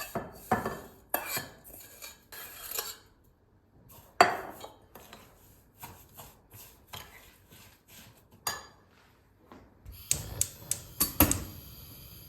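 Dishes and cutlery clinking and clattering in a run of irregular knocks, with one sharp knock about four seconds in and a quick series of clinks near the end.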